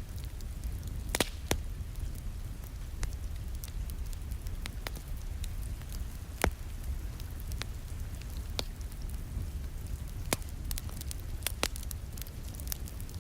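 Wood fire crackling, with sharp pops coming every second or so over a low, steady rumble. Soft rain hisses underneath.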